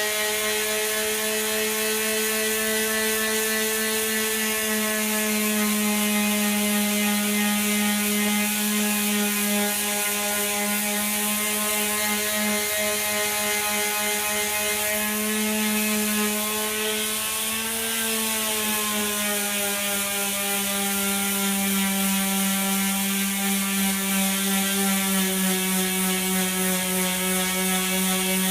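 Power sander with 80-grit paper running steadily as it sands a dashboard panel; its motor pitch sags briefly a little past halfway as it is pressed into the work, then comes back up.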